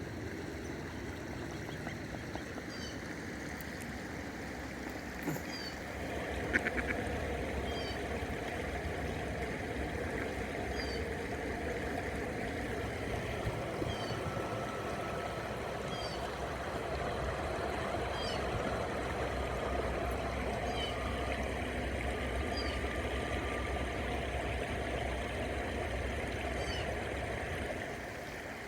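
Credit River water flowing steadily, a little louder from about six seconds in, with a small bird's short high chirp repeating every second or two.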